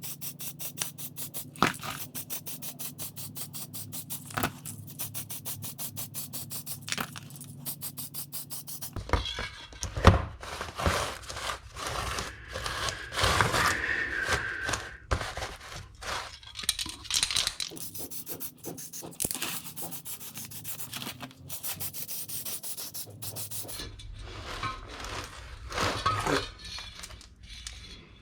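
Motorcycle drive chain being worked during lubing: fast, even clicking as the chain runs round, then rubbing and scraping along it. The clicking returns briefly before more rubbing near the end.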